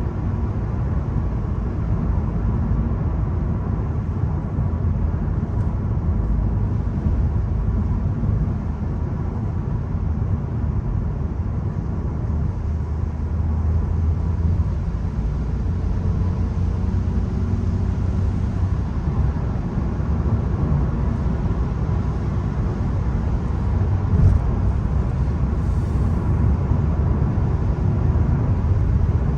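VW Golf 1.0 TSI being driven, its three-cylinder turbo petrol engine and tyre noise making a steady low rumble. Late on there is a single short knock.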